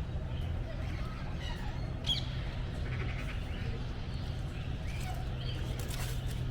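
Various birds calling in an aviary garden, with a sharper call about two seconds in, over a steady low hum.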